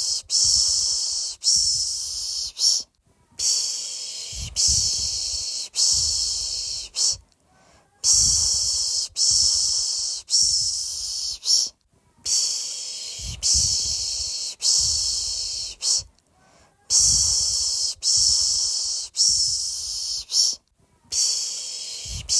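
A person's 'piş piş' shushing, the soothing hiss used to lull babies to sleep. It goes in rounds of about four hissing pulses roughly a second apart, with a short pause between rounds, repeating steadily.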